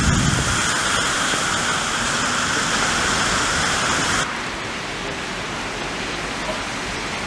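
Steady hiss of heavy rain falling, with a brief low rumble near the start. About four seconds in the sound cuts abruptly to a duller, slightly quieter rain.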